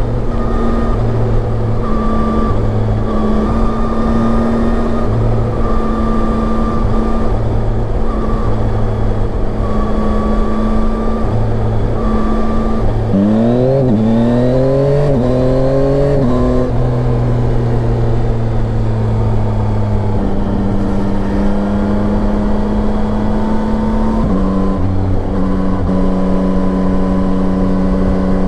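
Yamaha Tracer 9's inline three-cylinder engine running steadily at cruise. About halfway through it accelerates hard through a few quick upshifts, its pitch rising and dropping back several times in a row, then settles to a steady note again. A constant rush of wind noise lies under it throughout.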